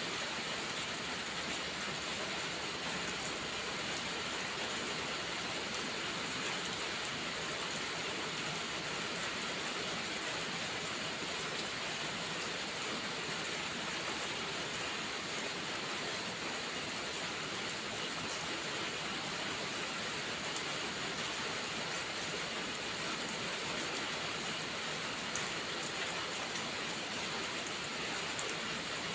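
Steady rain: an even, unbroken hiss with a few faint ticks scattered through it.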